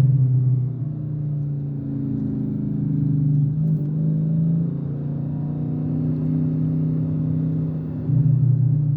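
A car engine idling steadily, swelling in level briefly at the start and again near the end.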